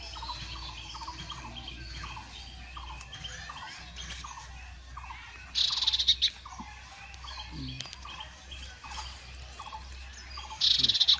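Birds calling: a short falling note repeated about twice a second, broken twice, about halfway through and near the end, by a loud, rapid chattering burst.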